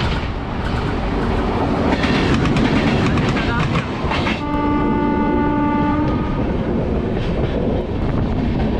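Indian Railways passenger trains running at speed, heard from an open coach door: a steady rumble and clatter of wheels on rails as a train passes close on the next track. About halfway through, a multi-tone train horn sounds once for nearly two seconds.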